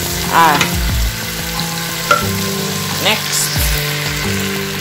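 Meat and potatoes sizzling as they fry in a stainless steel pot, stirred with a wooden spoon, over music with sustained chords.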